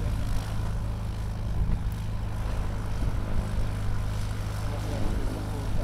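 Propeller aircraft's piston engine running steadily, a low even drone.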